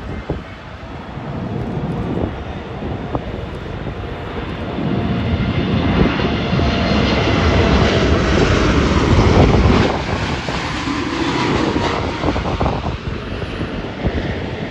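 Jet airliner flying past. Its engine noise builds, is loudest about halfway through, drops off sharply soon after, then fades.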